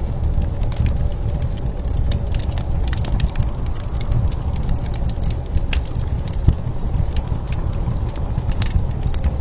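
Wood fire crackling, with irregular sharp pops and snaps over a steady low rumble of blizzard wind.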